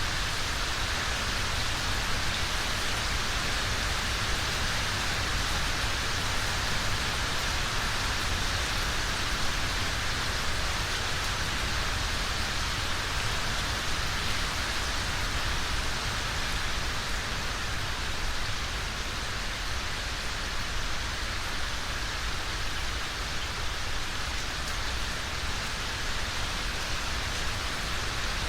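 Steady rain falling on a surface, an even hiss with no distinct drops or thunder standing out.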